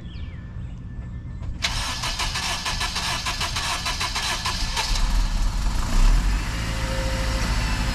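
Acura RSX's Honda K20 four-cylinder engine cranked by the starter for about three seconds in a fast rhythmic churn, then catching, flaring briefly and settling into idle. The crank is a little slow because the engine hasn't been started in a while.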